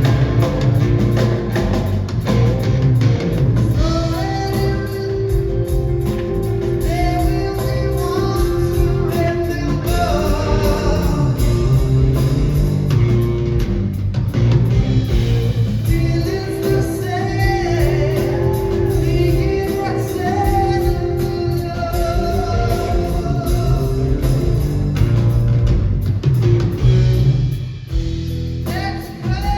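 Live rock band playing electric guitar, bass and drums, with singing over the band. The sound dips briefly near the end.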